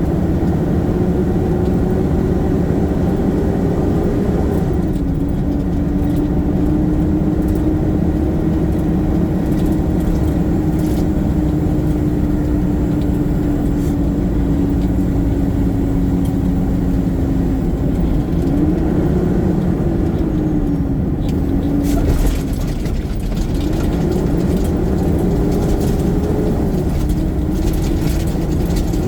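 Garbage truck engine running steadily as the truck is under way, its pitch climbing and then dropping sharply about four seconds in, like a gear change, and wavering up and down again later. Brief rattling and clatter about three-quarters of the way through.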